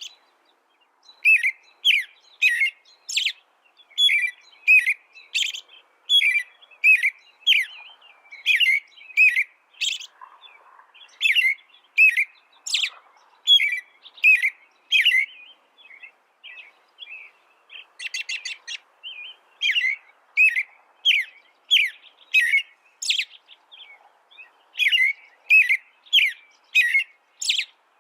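Small songbird singing: a long run of short, sharp chirps, two or three a second, broken by a brief rapid trill a little past the middle.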